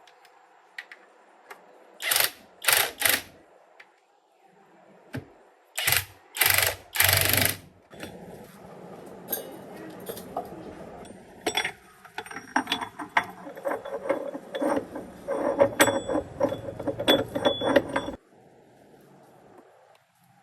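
Mechanical clicking and metal clinks from tool work on a tractor: a few sharp knocks, then a run of rapid ratchet-like clicking over a steady mechanical whirr that cuts off suddenly near the end.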